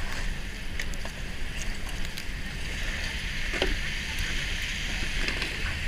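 Steady city street noise: a low traffic rumble with a wet hiss from the slush-covered road and a few faint clicks.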